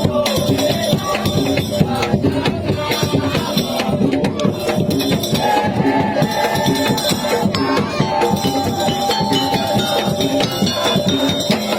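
Madurese ul daul percussion ensemble playing fast, dense drumming with rattling percussion, and a melody of held notes over it.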